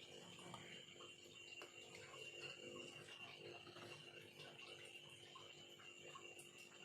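Near silence with faint, irregular small clicks and scrapes of a carving knife working bamboo, over a steady faint high-pitched hum.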